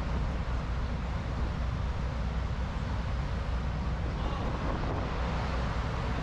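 Steady rumble and rushing noise of a moving train, with a constant low hum underneath.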